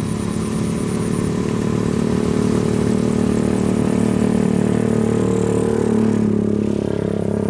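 Kubota DC93 combine harvester's diesel engine running steadily under working load, a continuous mechanical drone. The higher-pitched part of the noise fades a little about six seconds in.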